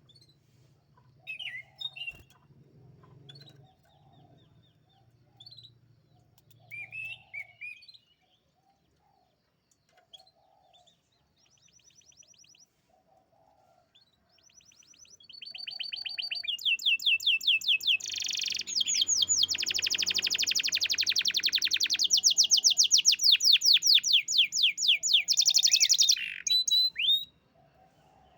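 Domestic canary singing: a few short chirps at first, then about halfway through a long, loud song of very rapid trills that runs for some twelve seconds before stopping abruptly.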